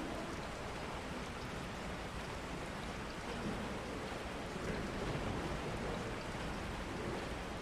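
Steady rain falling, an even hiss with a faint low murmur beneath it.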